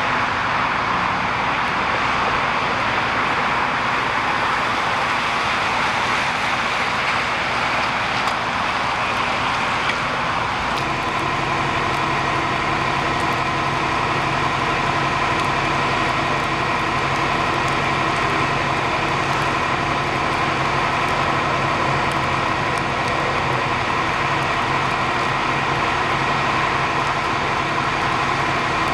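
Engines running steadily in a continuous loud rush. About eleven seconds in, a steady droning hum with several fixed tones joins it, like an idling engine or motor.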